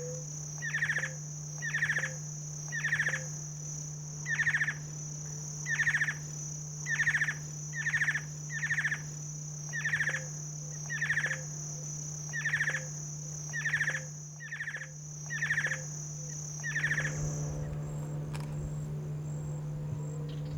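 A bird repeating a short, buzzy, falling call about once a second, over a steady high drone of insects. The calls and the drone stop about 17 seconds in.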